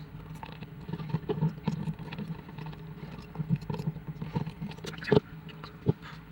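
Irregular light clicks and knocks of parts and tools being handled, with two sharper knocks near the end, over a steady low hum.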